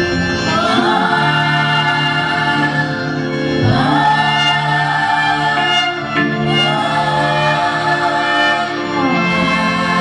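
A choir singing with instrumental accompaniment, in long held phrases that rise and fall about every three seconds.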